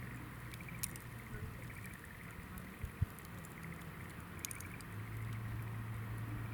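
Hinoki (Japanese cypress) firewood crackling in a campfire, with a few sharp pops. Under it run a low steady hum, louder in the last second and a half, and a faint pulsing high trill.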